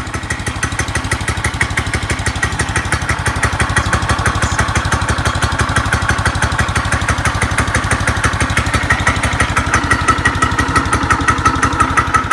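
Subaru Robin 169cc 6.5 hp single-cylinder four-stroke engine on a go-kart running steadily, less than a minute after a cold start. It gets slightly louder over the first few seconds, then holds even.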